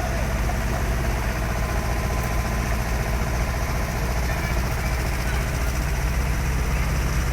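Large diesel engine of a heavy vehicle running steadily at low speed, a low even sound that holds without changes.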